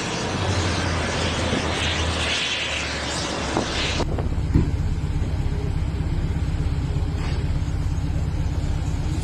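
Vehicle noise: a broad rush of sound, then an abrupt change about four seconds in to a low, fast, even engine throb.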